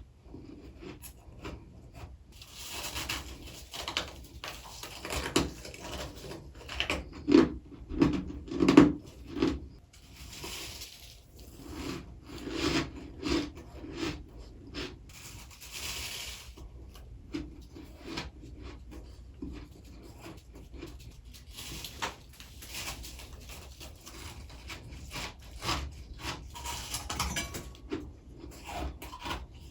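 Close-miked biting and chewing of freezer frost: crisp crunching and grinding in irregular bursts, loudest about seven to nine seconds in.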